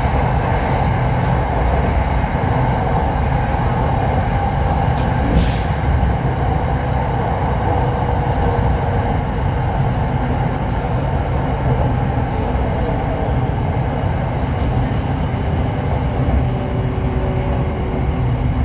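Running noise heard from inside the carriage of an SRT Red Line electric commuter train: a steady low rumble and hum, with a faint high whine slowly falling in pitch. A few light clicks come through, one about five seconds in and another near the end.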